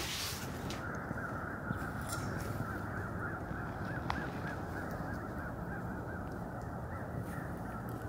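A bird calling over and over, a string of short rising-and-falling calls, over a steady background hiss.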